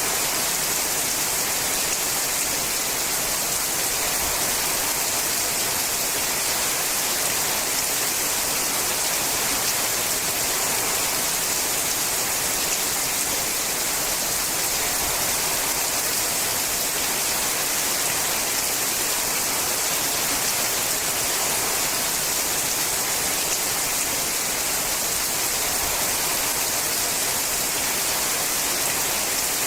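Steady heavy rain falling on a sheet-metal roof, a dense even hiss with no separate drops or gusts standing out.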